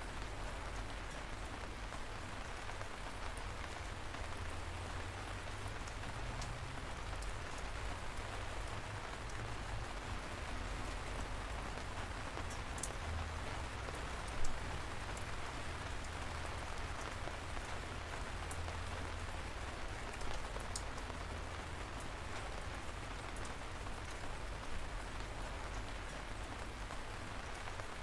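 Light rain falling steadily, with a low rumble underneath and scattered individual drops ticking close by; one louder drop hits about halfway through.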